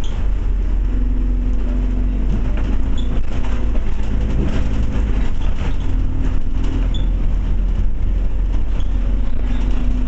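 Cabin noise on board a Scania OmniCity bus under way: the engine running steadily with slight changes in pitch, over road noise and a few small rattles.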